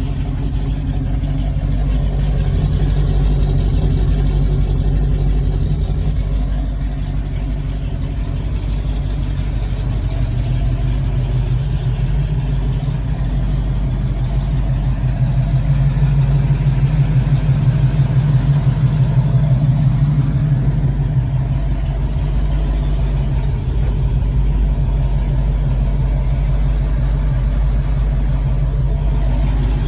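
A 1969 Pontiac Firebird's engine running steadily, growing a little louder for a few seconds about halfway through, then settling back.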